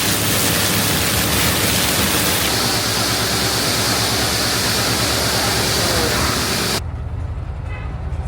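Heavy machinery engine running under a loud, steady rushing hiss. The hiss cuts off sharply about seven seconds in, leaving the engine alone.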